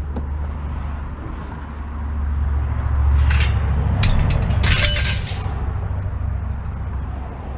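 Pieces of scrap metal clinking and clattering as they are handled and dropped, in several bursts near the middle, over a steady low rumble.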